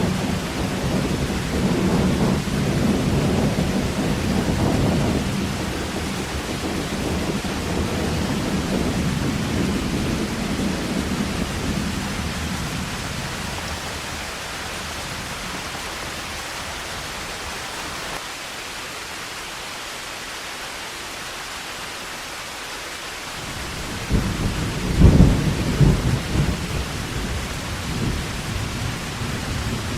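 Heavy rain pouring steadily with thunder: a low rumble that dies away over the first half, then a louder thunderclap about three-quarters of the way through that rolls on to the end.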